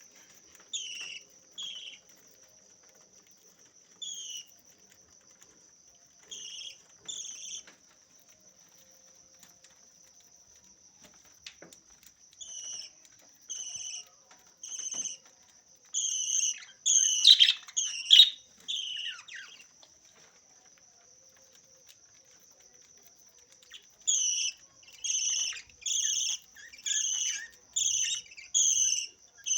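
Small parrot giving short, repeated chirping calls, in scattered pairs at first and then in a steady run of about one call every 0.7 seconds near the end, over a continuous high-pitched whine.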